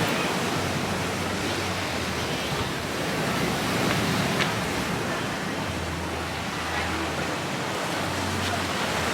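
Steady outdoor rushing noise, with a faint low hum that comes and goes.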